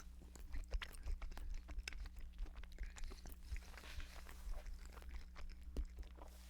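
A person chewing a mouthful of microwave burrito of beans, cheese and beef close to the microphone, with irregular wet smacks and small mouth clicks.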